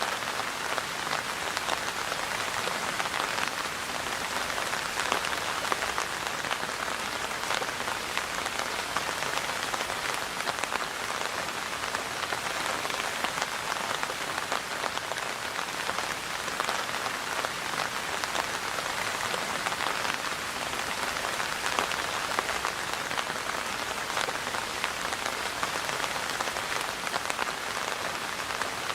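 Steady rain falling on a surface, a continuous patter of many fine drop ticks.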